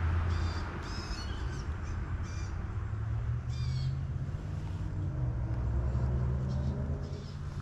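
A bird calling: a series of short, harsh, crow-like calls, several in the first few seconds and fainter ones near the end, over a steady low rumble.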